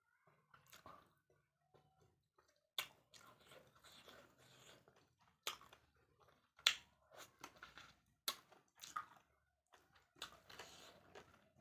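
A person chewing a mouthful of spicy chicken and rice close to the microphone, with a few sharp clicks and crunches among the soft, irregular chewing.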